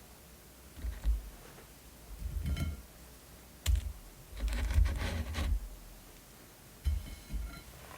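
Close-miked eating: crunchy bites and chewing that come in about five short bursts of crackling clicks, with pauses between them.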